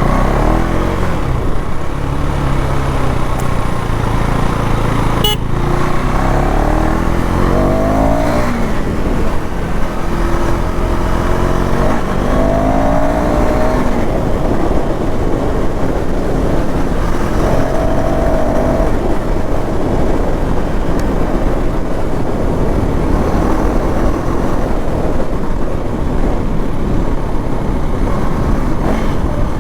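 KTM Duke 390 Gen 3 single-cylinder engine running through its stock exhaust, its pitch rising and falling several times as it revs, over a steady rushing noise. A single sharp click comes about five seconds in.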